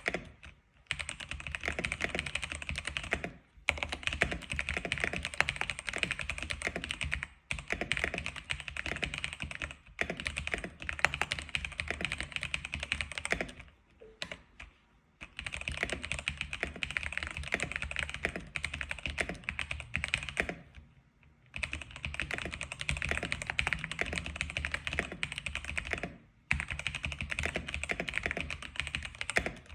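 Typing on an X87 keyboard: fast, continuous runs of keystrokes broken by brief pauses, with a longer pause about halfway through.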